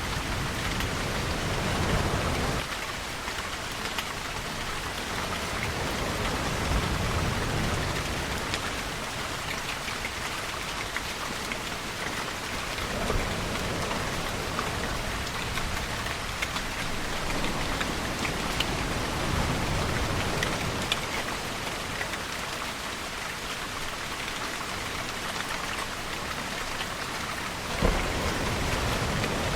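Steady rain falling, with fine drop ticks throughout. Low rumbling swells rise and fade every several seconds, and a sharper low thump opens the last one near the end.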